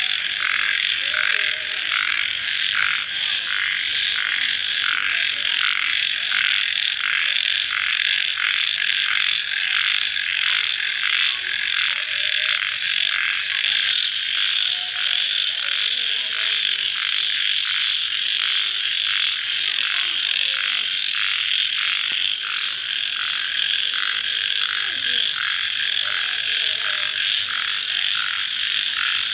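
Night-time chorus of crickets and frogs just after rain: a dense, steady trilling that pulses about twice a second, with a thin high whine above it.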